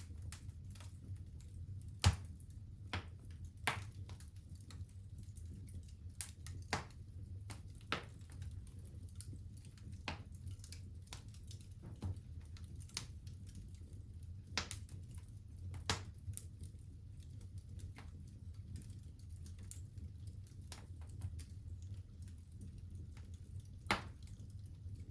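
Wood fire crackling in a fireplace: scattered, irregular snaps and pops, with a few louder pops about two seconds in, around the middle and near the end, over a low steady hum.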